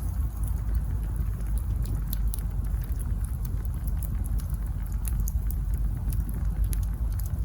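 Wood campfire burning: a steady low rumble of the flames with frequent small sharp crackles and pops from the burning logs.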